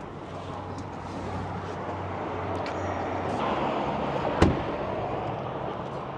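A vehicle running with a steady low engine hum and a rising rush of noise, and a single sharp thump about four and a half seconds in.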